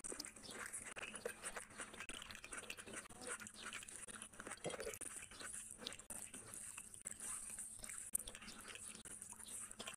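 Close-miked chewing with many small wet mouth clicks, and fingers squishing and mixing rice on a plate.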